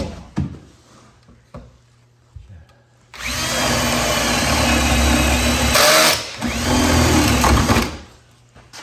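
A power drill runs for about five seconds, its pitch shifting slightly, with a short change in the sound near the middle.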